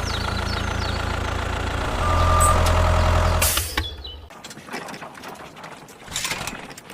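Mini tractor's motor running steadily, louder for about a second and a half from about two seconds in, then stopping about four seconds in; a short burst of noise follows near the end.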